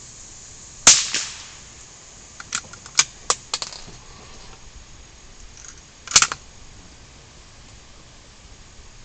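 .22 rimfire rifle fired twice: a sharp crack with a short echo about a second in and another about six seconds in, with a quick run of lighter clicks between them.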